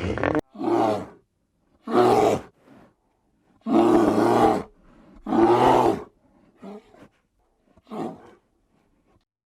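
A farm animal calling repeatedly: about five loud, low-pitched calls, each under a second long, separated by short silences.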